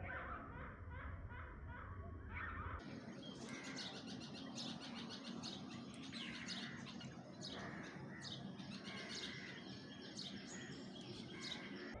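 Many small birds chirping in quick, overlapping calls. About three seconds in, a low hum drops away and the chirping becomes denser and higher.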